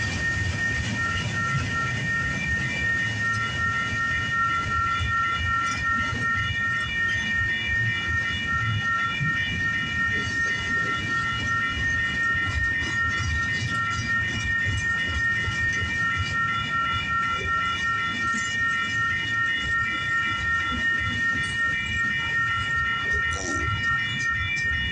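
Union Pacific intermodal freight train rolling past, its wheels rumbling and clattering over the rail joints, with several steady high ringing tones pulsing evenly throughout.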